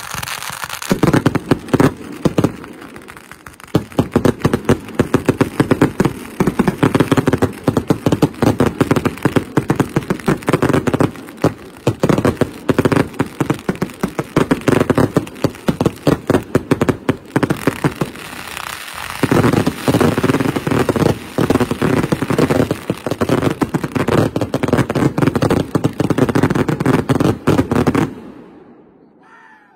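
Fireworks barrage: a rapid, continuous run of launches and bursts. It starts about a second in, eases briefly twice, and cuts off abruptly shortly before the end.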